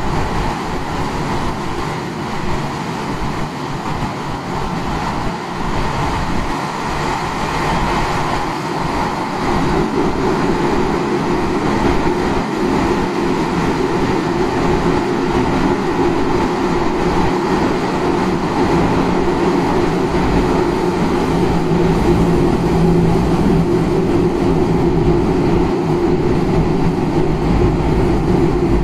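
Running sound of a Tokyo Metro 9000-series train (set 9105F) under way: a continuous rumble of wheels on rail, heard from on board. A steady hum comes in about ten seconds in and grows stronger.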